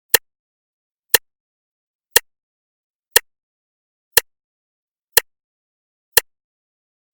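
Clock ticking, one sharp tick each second, seven ticks in all, with dead silence between them.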